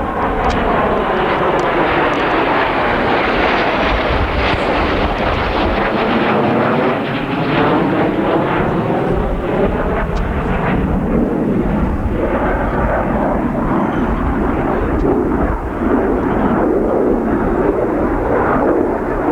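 F-15C Eagle fighter jet's twin Pratt & Whitney F100 afterburning turbofans flying past, loud and continuous, the tone sweeping down and back up as the jet passes.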